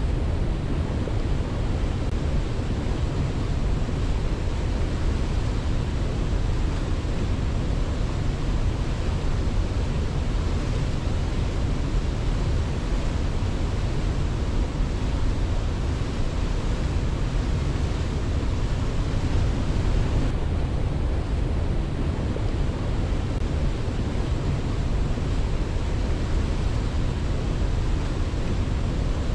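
Waterfall: a steady, even rush of falling water, heaviest in the low end, with no swells or breaks.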